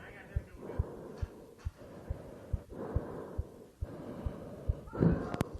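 Regular low thuds, a little over two a second, under a breathy rushing noise, with a few sharp clicks near the end.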